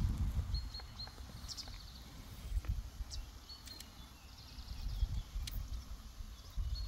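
Birds chirping several times in short high calls over a steady low rumble.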